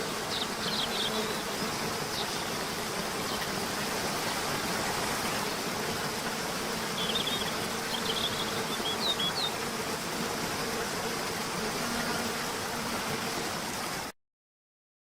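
Outdoor nature ambience: a steady insect buzz over an even hiss, with short high bird chirps near the start and again past the middle. It stops abruptly about a second before the end.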